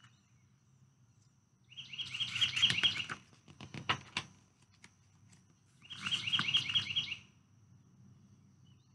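A songbird singing twice, each song a quick trill of repeated falling notes lasting about a second and a half. Between the two songs come a few short clicks and rustles of book pages being flipped.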